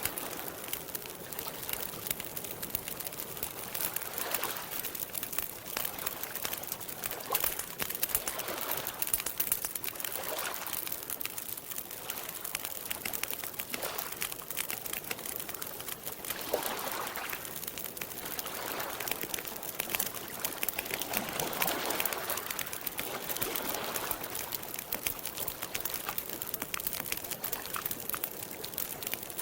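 Campfire crackling with a dense scatter of small sharp pops, over soft repeated swells of lake water lapping.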